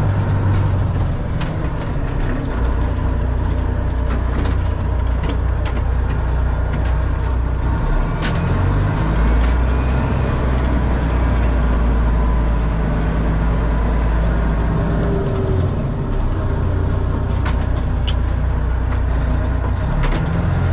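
Truck engine running steadily with a low hum that shifts in pitch a few times, with scattered light clicks and rattles.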